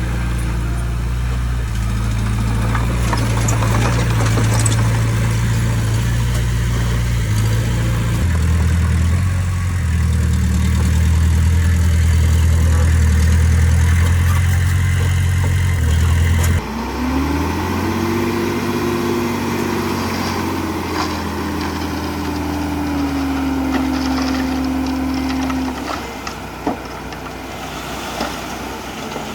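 Heavy construction machine's diesel engine running steadily, its low note shifting in steps. About 17 seconds in the sound changes abruptly and a higher engine note rises and holds, then the level drops near the end.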